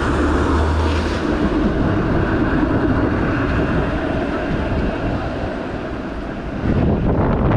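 Steady rumble of city traffic and riding noise, with a low hum during the first second.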